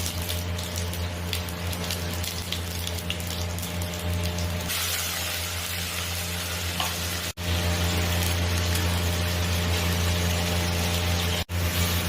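Curry sizzling and crackling as it fries in a pan, over a steady low hum. The crackle is busier in the first few seconds, then turns to a denser hiss.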